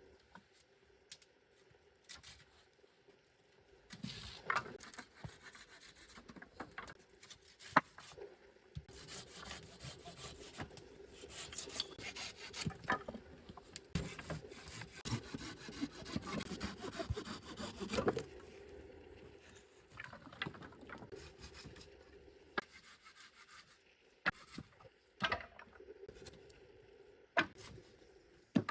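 Wood being worked by hand: uneven scraping and rasping strokes, busiest through the middle, with a few sharp knocks of wood on wood.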